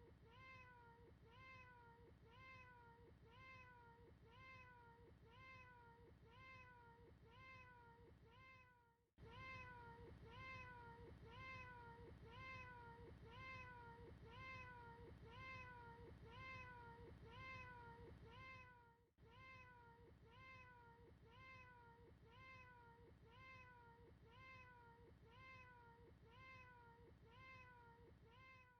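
A domestic cat's meow played as a loop, repeating about twice a second, each meow rising and then falling in pitch. The loop drops out for a moment about every ten seconds.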